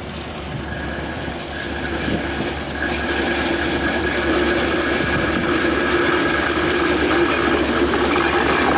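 DA class diesel-electric locomotive running with a steady engine drone and a whine, growing louder over the first three seconds and then holding steady.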